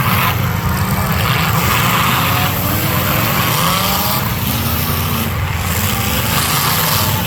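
Several demolition derby cars' engines running together, pitch rising and falling as they rev.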